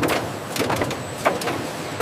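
Factory machinery running: a steady mechanical noise with irregular clanks and clicks several times a second.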